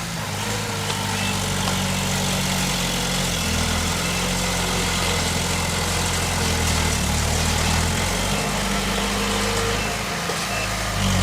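Heavy diesel engine of earth-moving machinery running steadily at low revs, its pitch shifting a few times.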